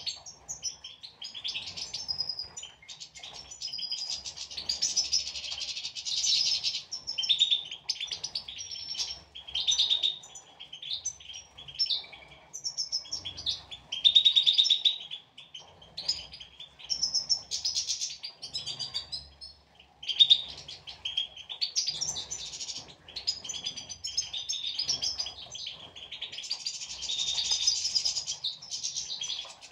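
European goldfinches twittering and singing: quick, tinkling chirps and trills run almost without a break, with a few short pauses.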